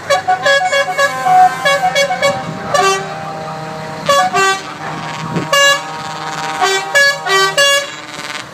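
Truck horns sounding many short, repeated toots at several different pitches, some overlapping, over the steady rumble of passing truck engines.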